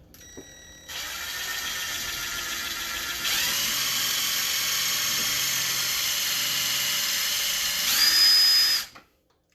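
Small high-speed electric motor, like a drill's, whining steadily. It steps up in speed about three seconds in and again near the end, then stops abruptly.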